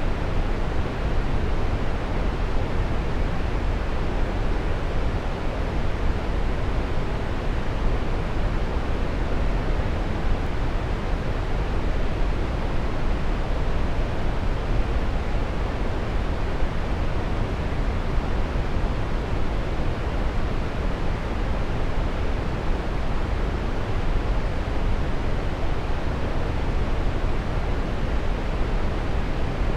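Waterfall: a steady rush of falling water, even and unbroken, strongest in the low end.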